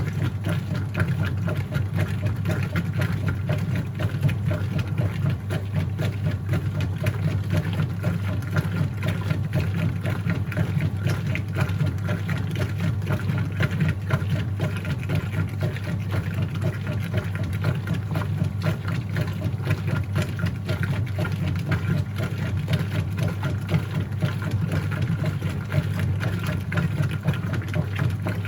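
Whirlpool top-load washing machine running mid-cycle: a steady low motor hum with a fast, even chatter.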